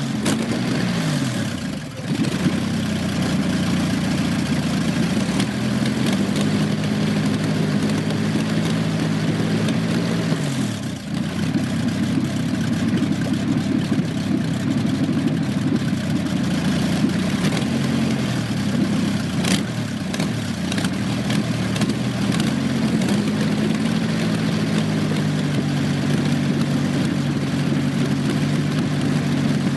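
The 1929 Napier Bentley's 24-litre Napier Lion W12 aero engine running loud on stub exhausts, its revs rising and falling a few times. The pitch drops sharply and the level dips about two seconds in and again around eleven seconds, then it picks up again.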